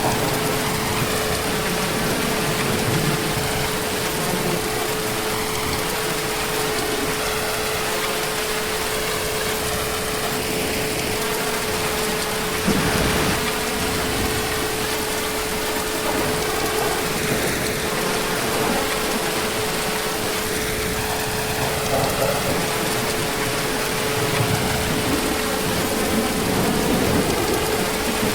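Heavy rain falling steadily, with a few low swells of distant thunder and a brief louder gust about halfway through. A steady hum runs underneath.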